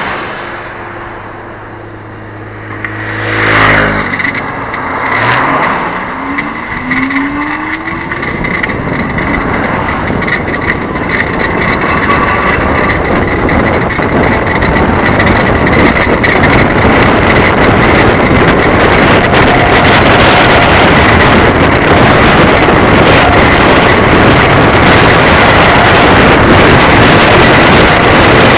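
A NomadOmatic x2 trike's 150cc motorcycle engine running steadily, then passing close and loud about four seconds in, and rising in pitch as it accelerates. After that, heavy wind noise on the microphone builds up and stays loud as the camera bike rides at speed.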